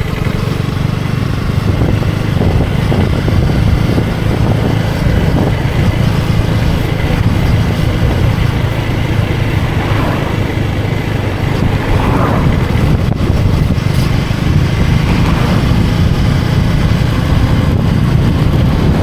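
Motorcycle engine running steadily during a ride, with a low, even hum under a rush of road and wind noise.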